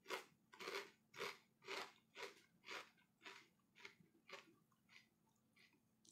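Faint crunching of a kettle-style potato chip being chewed, a regular crunch about twice a second that grows weaker as the chip breaks down and dies out near the end.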